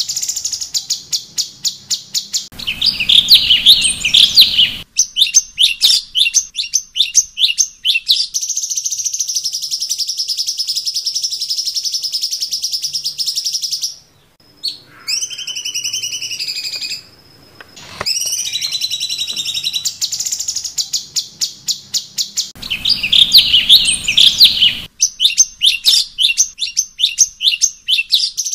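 Cucak cungkok songbird singing a varied song: rapid trilled phrases, a long steady high whistle, and twice a loud harsh chattering burst.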